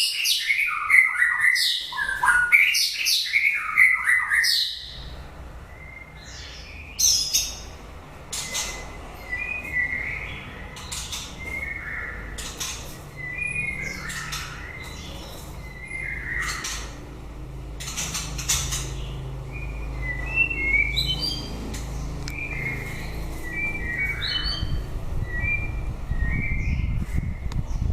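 White-rumped shama singing: a loud run of varied, gliding whistled phrases for the first four or five seconds, then quieter, scattered short notes and sharp clicking calls. A low background rumble grows near the end.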